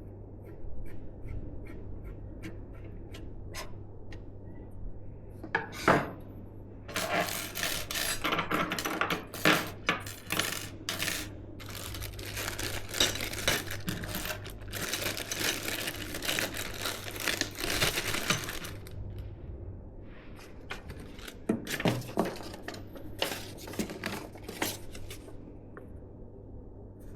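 Small hard computer parts and hardware being handled on a work surface: a run of light clicks, then a long stretch of dense clinking and clattering, and a few more clicks near the end, over a steady low hum.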